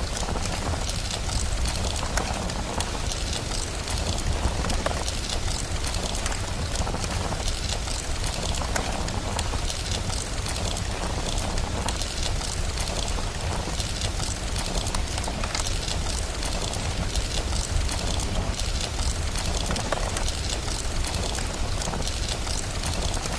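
Steady rain with a wood fire crackling, many small sharp pops scattered over an even hiss and a deep, constant rumble.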